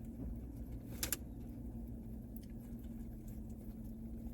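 Steady low hum inside a parked car with its engine running, broken by a sharp double click about a second in.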